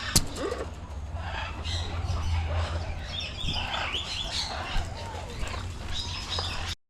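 Parrots in an aviary making short chirps, squeaks and gliding calls, with a sharp click just after the start and a steady low hum underneath. Everything cuts off abruptly near the end.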